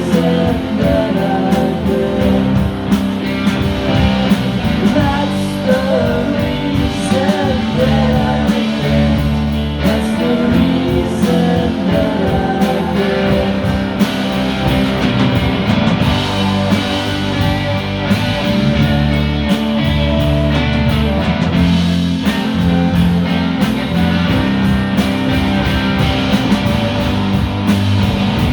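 Live rock band playing, with guitar prominent over a steady, loud full-band backing.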